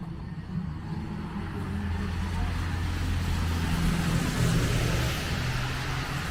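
A motor vehicle passing close by: a steady low engine hum with tyre hiss that swells to its loudest about four to five seconds in, then eases off.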